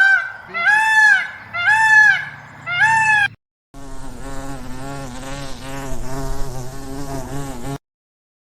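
A bird honks four times, about once a second, each call rising and falling in pitch. It stops, and after a short pause an insect buzzes with a steady, slightly wavering tone for about four seconds before the sound cuts off.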